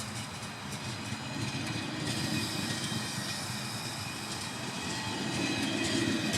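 Train running along the track: a steady rumble that grows a little louder toward the end, with a faint thin high-pitched whine over it from about two seconds in.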